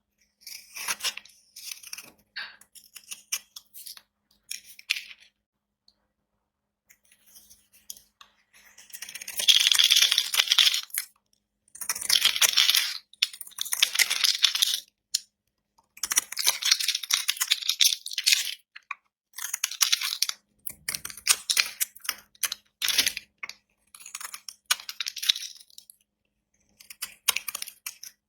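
A blade cutting through dry soap, giving dry crackling, crunching strokes. The strokes come in bursts of one to three seconds, with short silent pauses between them, and the longest and loudest bursts fall in the middle.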